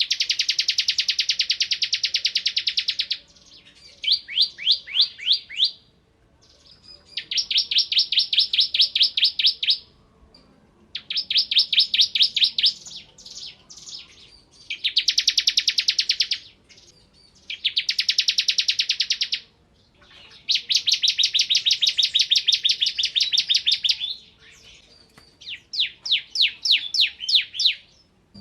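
Bar-winged prinia (ciblek kristal) singing in rapid-fire bursts, the 'ngebren' delivery: about eight trills of quick, evenly repeated high notes, each lasting one to three seconds, with short pauses between.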